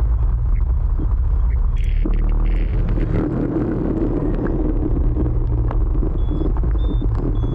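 Motor scooter riding through city traffic: a loud, steady low rumble of engine and road noise, with a few short, faint high-pitched tones.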